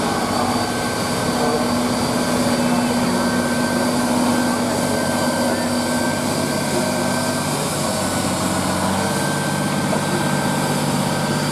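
Truck engine running steadily, its note dropping lower about eight seconds in.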